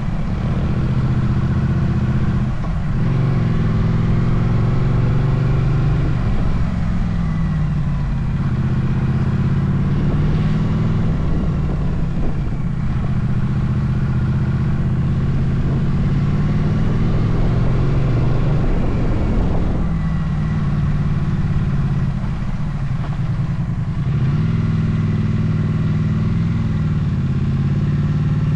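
Motorcycle engine running under way, its pitch rising and falling several times with throttle and gear changes, over a steady rumble of wind noise.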